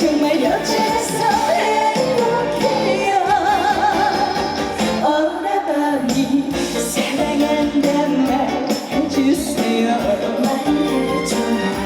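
A woman singing a Korean trot song with heavy vibrato over a loud live band backing.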